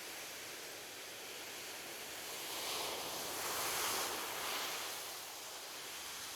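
Ocean waves washing on a beach: a steady surf hiss with one wave swelling about halfway through and easing back.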